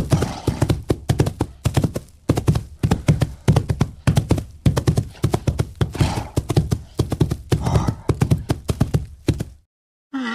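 White rhinoceros grazing close up: rapid, rhythmic tearing and cropping of dry grass, several pulls a second, stopping abruptly just before the end.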